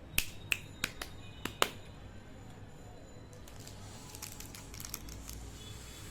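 Candy packaging being handled: five sharp plastic clicks in the first second and a half, then a faint, fine crackle like a sweet wrapper being crinkled from about three seconds in.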